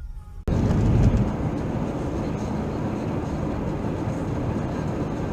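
A car driving, recorded by a dashcam: a steady low road and engine rumble that cuts in suddenly about half a second in, after a moment of faint music.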